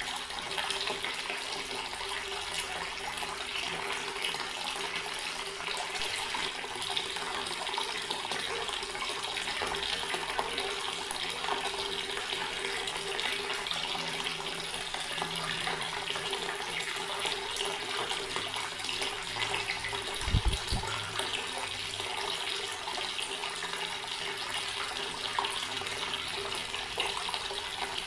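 Water tap running steadily in a garden, an unbroken splashing stream. A single low thump about two-thirds of the way through.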